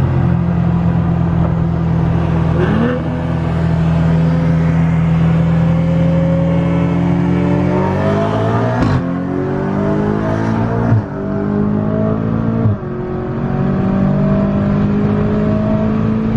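BMW M5 engine running at a steady pitch, then accelerating hard: the engine note climbs, drops sharply at two upshifts about 11 and 13 seconds in, then holds steady again.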